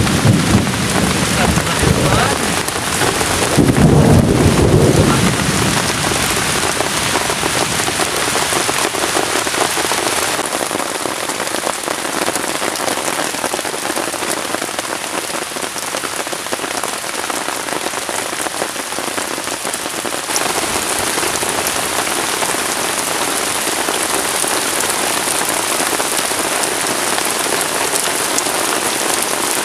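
Heavy tropical rain falling steadily on the forest, with a low rumble of thunder in the first few seconds that swells twice and then dies away, leaving the rain alone.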